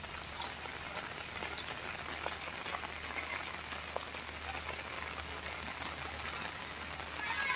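Steady rain falling: an even hiss with scattered drop ticks, and one sharp click about half a second in.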